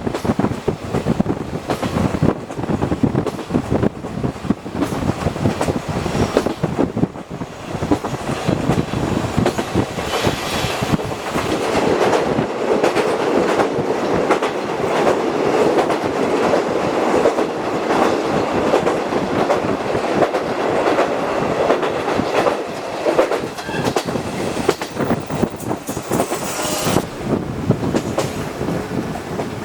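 Running noise heard from inside a locomotive-hauled passenger coach: steel wheels clicking over rail joints in a steady clickety-clack over a continuous rumble. A brief hiss rises and falls twice, once about a third of the way in and once near the end.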